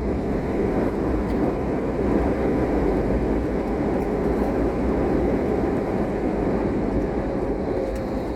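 Steady cabin rumble of an Airbus A321neo with CFM LEAP-1A engines: engine and airflow noise heard from inside the passenger cabin, strongest in the low-mid range and even throughout.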